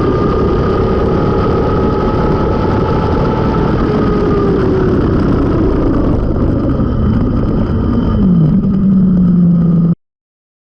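Suzuki GSX-R750 K5's inline-four engine through a Mivv carbon exhaust, heard onboard over a noisy rush of air. The engine note falls steadily as the bike slows, settles into a steady lower note near the end, and then cuts off suddenly.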